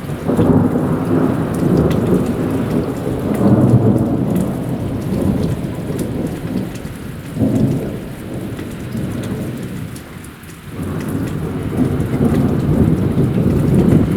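Long rolling thunder rumbling over heavy rain, starting suddenly, swelling and fading, with a short lull about ten seconds in before it rises again.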